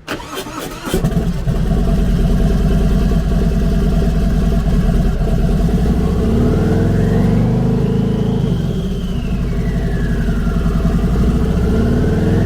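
Harley-Davidson Milwaukee-Eight 114 V-twin with a Trask turbocharger being started: the starter cranks and the engine catches about a second in, then it runs loud and steady. From about halfway the turbo's whine rises and falls with light throttle.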